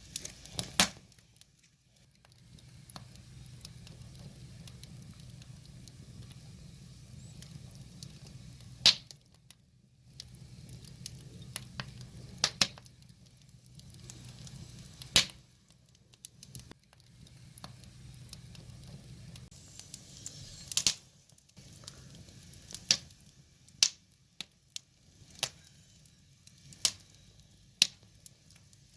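Firewood burning: irregular crackling with a dozen or so sharp pops scattered through, over a low steady hum that fades out about two-thirds of the way in.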